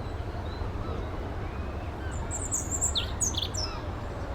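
A songbird chirping, a quick cluster of short high notes for about a second and a half in the middle. Under it runs a steady low rumble.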